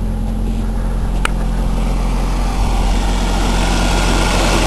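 1995 Ford Escort wagon's four-cylinder engine running just after a cold start, growing louder from about halfway through as it is revved. A short sharp click about a second in.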